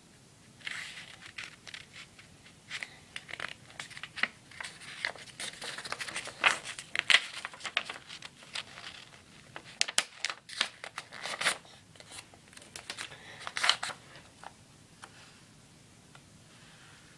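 A sheet of paper being folded and creased by hand, crinkling and rustling in a string of short crackles that stop a few seconds before the end.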